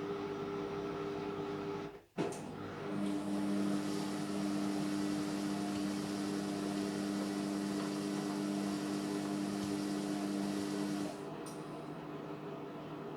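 Indesit MyTime washing machine running mid-cycle. About three seconds in a motor starts a steady humming run, and it cuts off about eight seconds later.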